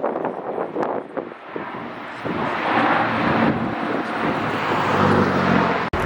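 An aircraft flying past at an air show, its engine noise swelling from about two seconds in, with a low hum coming through near the end. The sound breaks off abruptly just before the end.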